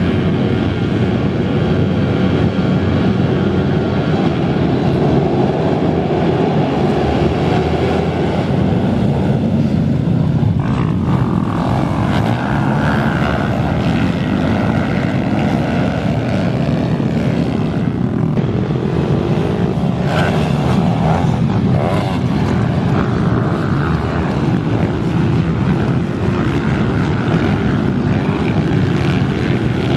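Pit bike engine running hard in a race: a loud, continuous small-engine buzz that holds through without a break.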